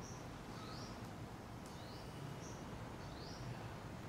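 Faint room tone with a bird repeating a short high chirp about once a second, some chirps rising in pitch, over a low steady background hum.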